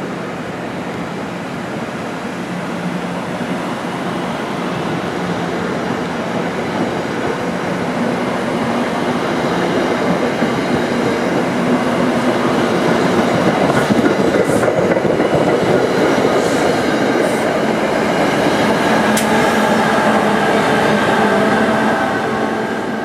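Train rolling through the station, its rumble growing louder as it comes close, with wheels clattering on the rail joints and a faint squeal in the later part.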